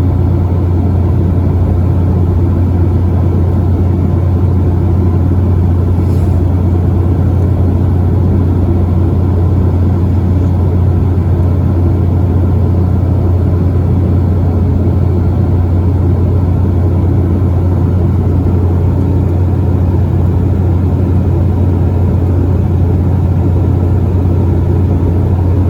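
Steady low drone of an Embraer 195LR jet's General Electric CF34 turbofans and airflow, heard inside the cabin, holding an even level throughout.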